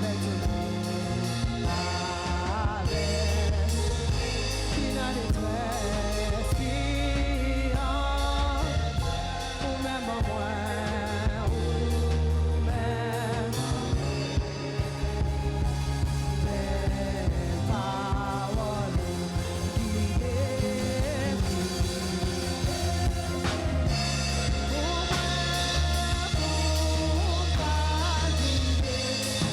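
Live gospel worship music from a church band, with drum kit, bass and melody lines and singing over them.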